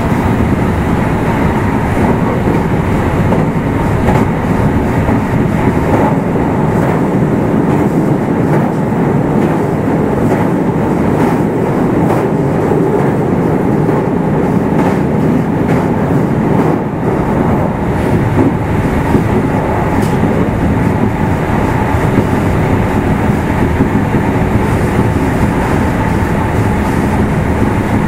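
Meitetsu 1000/1200 series electric train running steadily, heard from inside motor car Mo 1414: continuous wheel and motor noise with a few clicks from rail joints.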